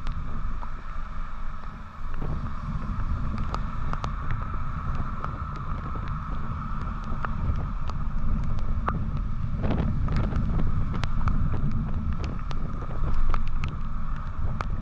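Motorcycle under way, wind buffeting the microphone over a steady low rumble of engine and road, with scattered sharp clicks and ticks.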